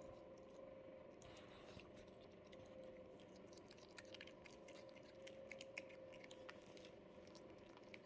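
A cat chewing zucchini: faint, irregular little crunching clicks, over a steady faint hum.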